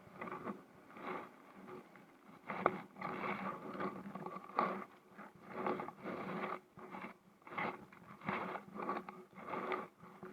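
Kayak paddle strokes: a splashy swish through the water every half second to a second, in a steady rhythm.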